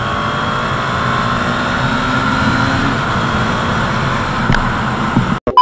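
KTM Duke 250 BS6's single-cylinder engine accelerating in third gear, its pitch rising slowly for the first few seconds and then holding steady. The sound cuts off suddenly near the end.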